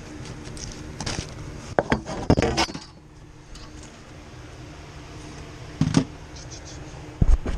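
Metal clanking and rattling from sheet-metal parts and tools being handled while the top of an HVAC coil housing is taken off: a few separate knocks and a quick cluster of clanks, over a steady low hum.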